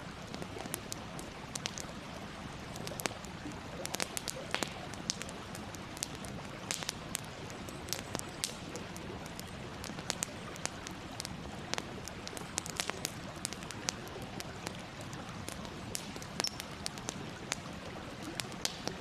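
Wood campfire crackling: a steady hiss with frequent sharp, irregular pops and snaps.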